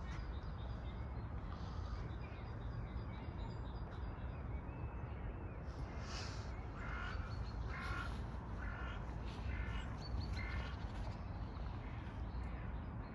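A bird calling in a run of about six short, harsh repeated calls, a little under a second apart, in the second half, over a steady low outdoor rumble. Fainter high chirps of small birds come early on.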